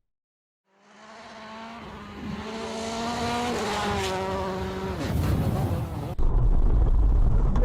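Car on the road: a steady engine tone swells in loudness, its pitch drops about four seconds in, and about six seconds in a loud low road-and-wind rumble takes over.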